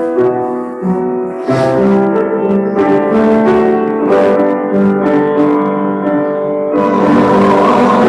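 Piano playing held chords and melody notes; about seven seconds in the music turns fuller and denser.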